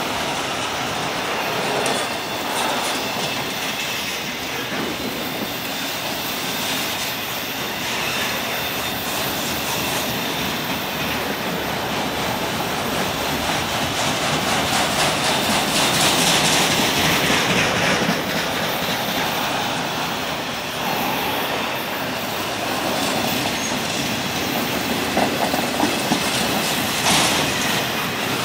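Freight train of autorack cars rolling past: a steady rush of steel wheels on rail, briefly brighter around the middle, with sharp clicks over the rail joints near the end.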